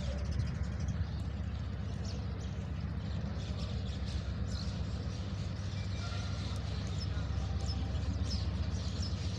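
Steady low rumble of a ZCU-30 diesel-electric locomotive as a passenger train pulls into the station, with faint short high chirps over it.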